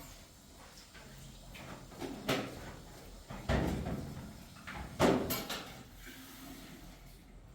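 A few sudden knocks and bumps, each trailing off in a short rattle or scrape, like a door or things being moved about by hand; the loudest comes near the end.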